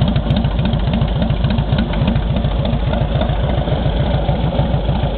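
1996 Harley-Davidson Dyna Low Rider's Evolution V-twin idling with a steady, loping beat of about seven pulses a second, through a gutted 2-into-1 shark tail muffler fitted with a 36-inch straight-through fishtail extension.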